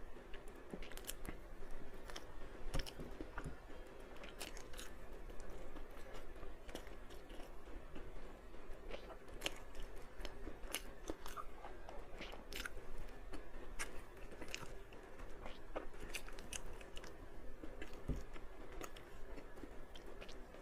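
A person eating a sauce-coated scallion roll snack close to the microphone: biting and chewing, with irregular sharp crunches a few times a second.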